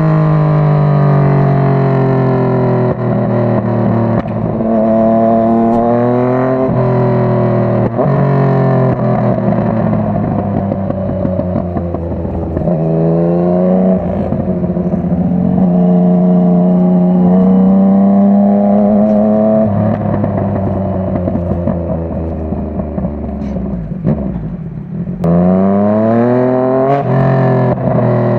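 Yamaha MT-09's 847 cc inline three-cylinder engine accelerating through the gears, its pitch climbing and then dropping at each upshift. About 24 seconds in the throttle is briefly closed, and then the engine pulls hard again.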